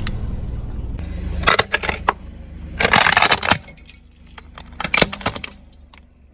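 A car's tyre rolling over and crushing brittle objects, over the car's low engine hum: crackling and snapping in several bursts, loudest about three seconds in, dying away near the end.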